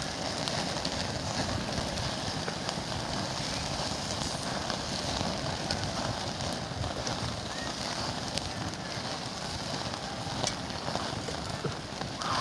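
Fire crackling steadily, with scattered sharp pops.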